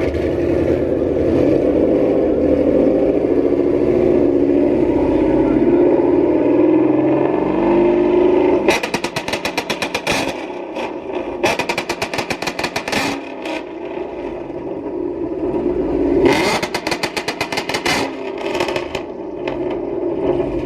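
A car engine running steadily at a held pitch. Then, from about nine seconds in, three volleys of rapid machine-gun-like bangs, each a second or two long, typical of a two-step launch-control rev limiter cutting and firing.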